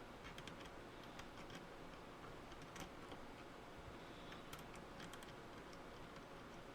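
Faint, irregular small clicks and ticks over a low steady hiss.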